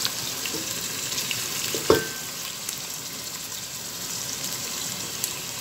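Onions and peppers frying in oil in a stainless-steel pot, a steady sizzle with small crackles. A single sharp knock with a short metallic ring about two seconds in.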